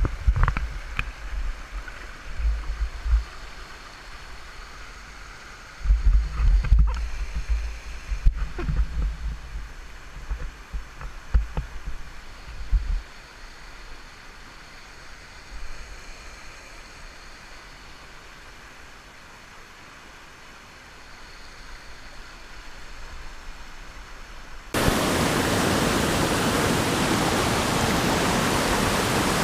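Rushing river water muffled by a GoPro's waterproof case, with low knocks and thumps on the camera for the first dozen seconds. Near the end a much louder, steady rush of water sets in suddenly.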